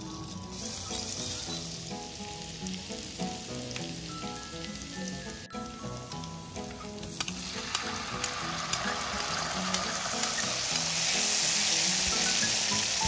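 Minced chilli peppers sizzling in melted butter in an aluminium wok, then banana catsup frying and bubbling in the butter. The sizzle grows louder through the second half, with scattered clicks of stirring against the pan, over light background music.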